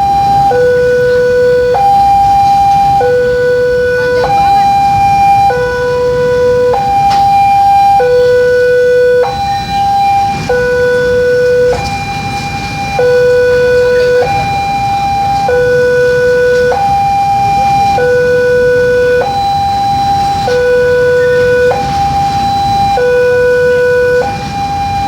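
Railway level-crossing warning alarm sounding a two-tone hi-lo pattern, the pitch switching about every second and a quarter, over the low rumble of a long freight train passing.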